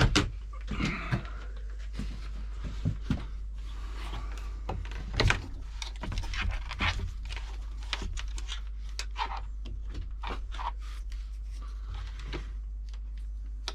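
Irregular small clicks, knocks and scrapes of hands working a water pump's hose fittings, with a steady low hum underneath.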